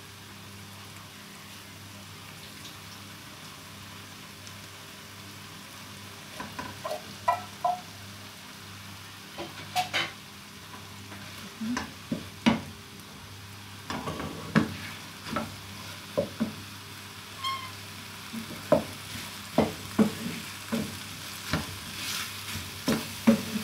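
Corn frying in a pan with a steady sizzle, and from about six seconds in a spatula scraping and knocking against the pan in irregular strokes as it is stirred.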